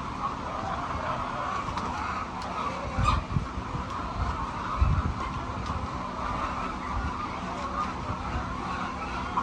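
A large flock of hens clucking and calling all together in a continuous, wavering chatter, with a few dull low thumps about three and five seconds in.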